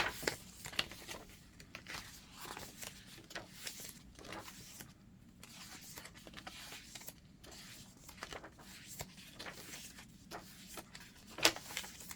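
Paper pages of a handmade junk journal rustling and crinkling as they are handled and turned, in many short irregular rustles with a sharper crinkle near the end.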